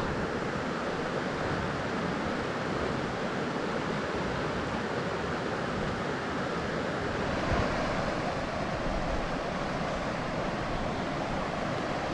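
Steady rushing noise with no clear engine note, like wind across the microphone.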